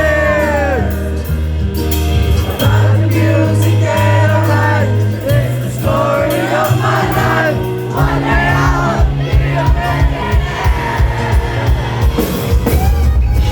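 A live band playing a song with singing over held bass notes; a steady drum beat comes in about eight seconds in.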